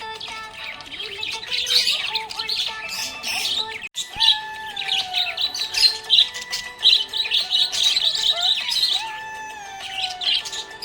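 Budgerigars chattering in a continuous stream of rapid, high chirps, over background music with sustained, gliding tones. The sound breaks off briefly about four seconds in.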